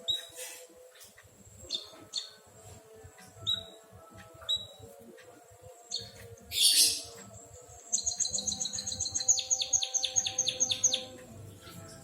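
An emprit kaji munia gives short, high single chirps every second or so, with a brief harsh burst near the middle. It then sings a rapid canary-like trill of quickly repeated notes lasting about three seconds.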